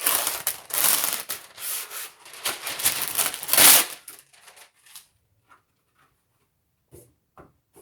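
A package glued shut on the inside being pulled open by hand: loud crinkling and tearing of the packaging for about four seconds, then a few light knocks.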